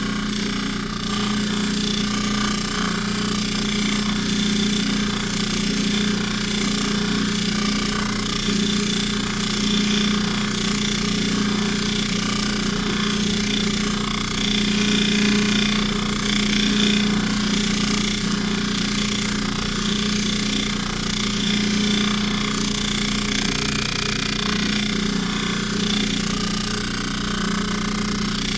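Polishing motor running steadily with a spinning buffing wheel, a chain necklace held against the buff as it is polished with rouge: a constant motor hum under the hiss of the buff.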